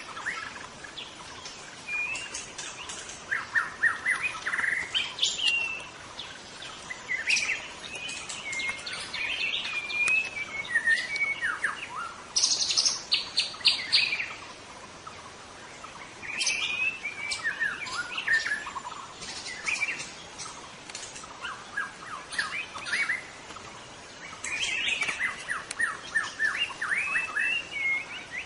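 White-rumped shama singing in full song: varied phrases of sweeping whistles and rapid runs of notes, separated by short pauses.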